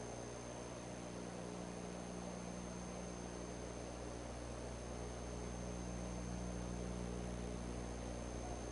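Steady hiss with a low electrical hum and a thin high whine: the background noise of the eagle nest camera's microphone, with no distinct event.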